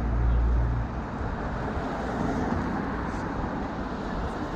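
City street traffic noise heard from a moving bicycle: a steady rush of road noise, with a low rumble that drops away about a second in.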